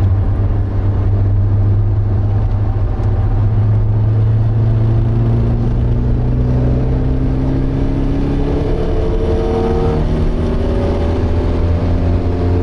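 Porsche 924's 2.0-litre four-cylinder engine heard from inside the car, running hard under load on track, its revs climbing slowly through the second half as it accelerates.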